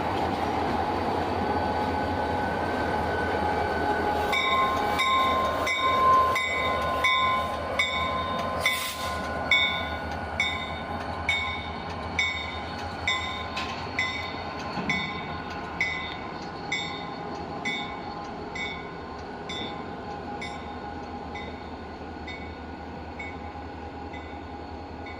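A train rolling past, a steady rumble and hum. From about four seconds in, a sharp metallic ringing strike repeats just under once a second and slowly fades.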